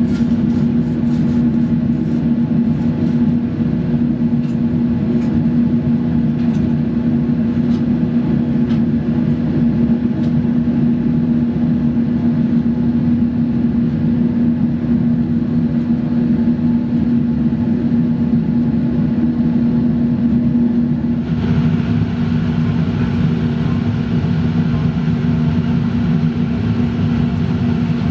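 A motor-driven machine running steadily with a strong hum. A few light ticks sit in the first seconds, and extra hiss joins about 21 seconds in.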